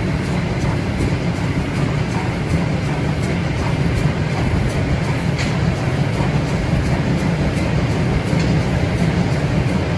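A passenger train running, heard from on board: a steady, deep rumble with faint clicks from the wheels on the track.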